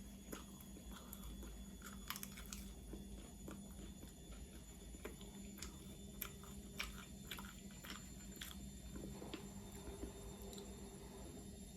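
Close-miked eating: irregular crunchy bites and chewing of food, the crunches loudest about two seconds in and again near the middle, over a faint steady hum.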